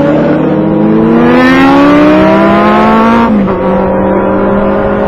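Motorcycle engine accelerating, its pitch climbing for a couple of seconds, then dropping sharply a little over three seconds in as it shifts up a gear, then running steadily.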